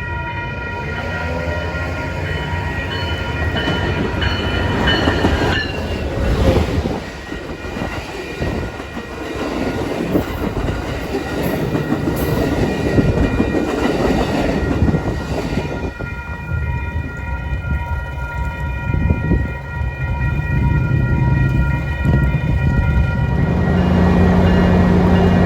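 Train passing close by, sounding its horn: a steady multi-note horn whose pitch drops as it goes past about five seconds in, followed by the rumble and wheel noise of the train. Near the end a steady low engine hum grows louder.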